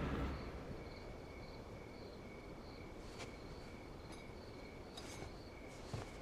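Crickets chirping faintly in a steady, regular rhythm as ambience, while music fades out at the start. A few soft clicks come near the end.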